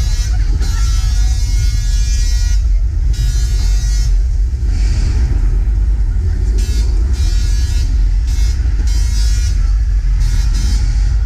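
Staged earthquake effect on a studio tram tour set: a heavy, steady low rumble with loud horn-like tones blaring over it, breaking off and returning several times.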